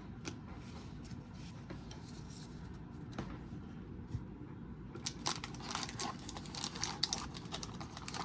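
Sports cards and their foil pack wrapper being handled: light clicks and rustling, turning into busier crinkling and tearing about five seconds in.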